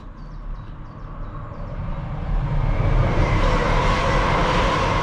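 Rumble of a passing vehicle, building up over the first three seconds and then holding steady and loud.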